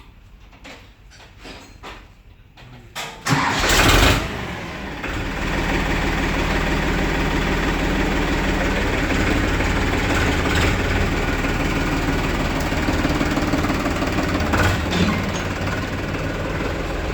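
Powertrac Euro 50 tractor's diesel engine starting about three seconds in, catching with a brief loud burst, then settling into steady running.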